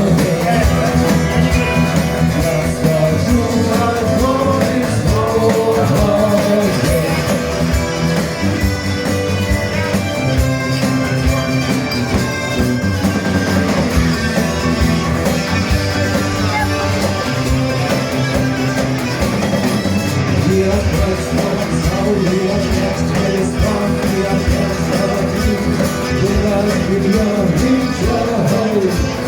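Live rock band playing a song, with guitar, bass and drums, and a singing voice over them.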